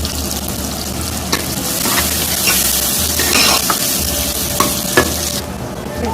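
Onions frying in hot oil in a cooking pot, sizzling loudly while they are stirred, with a few sharp knocks of the spoon against the pot. The sizzle drops away suddenly about five and a half seconds in.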